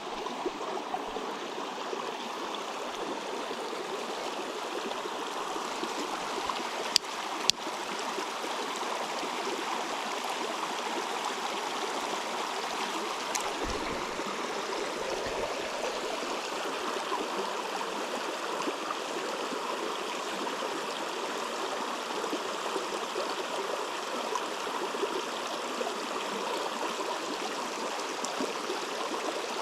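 Steady rushing of a flowing river, with two sharp clicks about seven seconds in.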